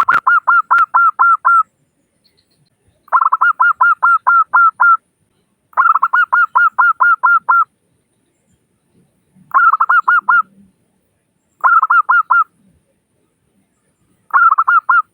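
Zebra dove (perkutut) singing: six bouts of quick, evenly repeated cooing notes, about five notes a second, each bout lasting one to two seconds with short pauses between.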